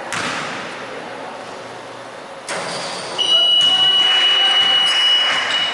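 Noisy basketball gym, the noise swelling twice, with one steady high-pitched tone held for about two and a half seconds from about three seconds in.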